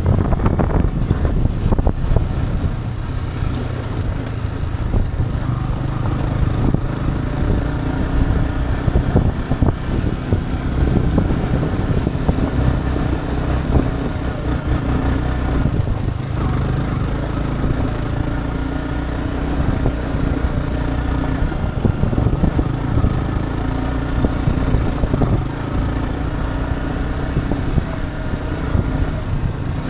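Motorcycle engine running steadily while riding, its note shifting a little in pitch with the throttle, over a low rumble of wind on the microphone.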